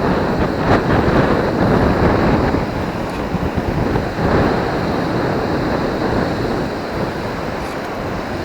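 Surf washing with wind buffeting the microphone, a steady rushing noise.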